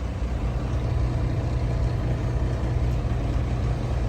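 Semi truck's diesel engine running steadily, heard from inside the cab as a low, even drone.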